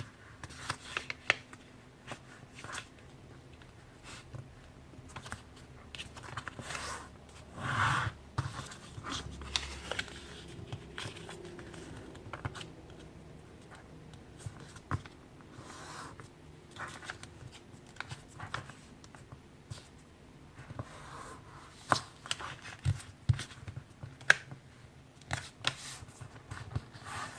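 A sheet of letter-size paper being folded and creased by hand: intermittent rustles and short crisp clicks as the edges are folded to the center crease and pressed flat, with a louder rustle about eight seconds in.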